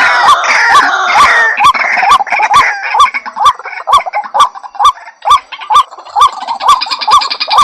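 White-breasted waterhen (ruak-ruak) calling: a steady series of hooked "kwak" notes about two a second, with a denser overlapping chorus of higher calls at the start and again near the end.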